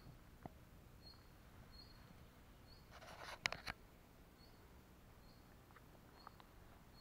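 Near-silent riverbank quiet with a faint, short, high bird call repeating about once or twice a second. A brief burst of rustling with a few sharp clicks comes about three seconds in.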